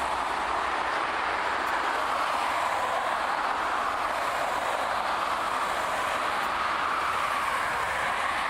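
Airbus A321-131's twin IAE V2530 turbofan engines at take-off thrust: a loud, steady rushing noise that swells and eases slightly.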